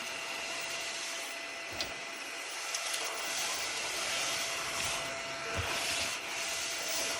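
Small cordless desktop vacuum cleaner running steadily: a constant motor whine over airflow hiss, with a few faint clicks.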